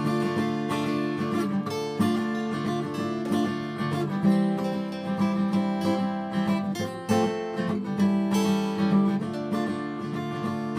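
Acoustic guitar strumming chords in a country-style variant rhythm, an instrumental interlude with no singing.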